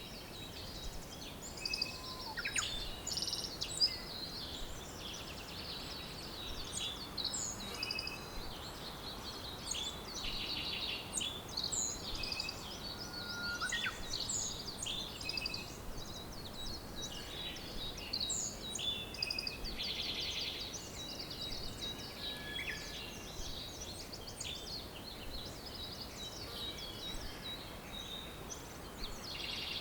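Several songbirds singing and calling at once: many short chirps, rapid trills and thin whistles overlapping, over a steady background hiss.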